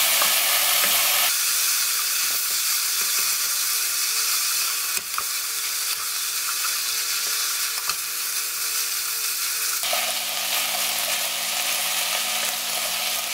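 Beef and soaked seaweed sizzling in sesame oil in a nonstick pot as they are stir-fried with a wooden spatula, a steady hiss with scattered clicks and scrapes of the spatula against the pan.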